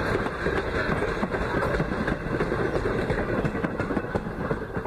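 Steel wheels of passenger coaches rolling along the rails as the train passes, a steady rumble full of quick clicks and clatter.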